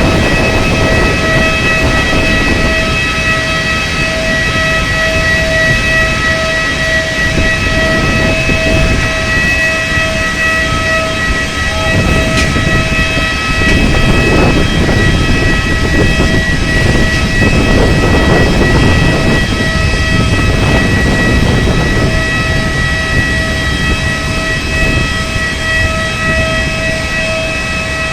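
Boeing 737 jet engine running with a steady whine of several high tones over a loud rumble. The lowest tone drops out about halfway through and comes back near the end.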